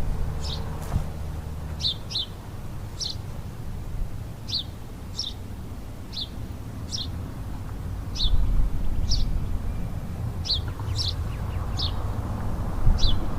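A bird calling over and over with short, sharp chirps that drop in pitch, about one or two a second, over a low rumble that grows louder about eight seconds in.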